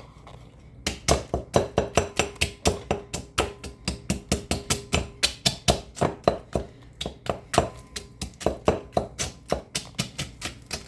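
Rapid, steady pounding as pork rinds are crushed in a container, about four to five strikes a second, starting about a second in.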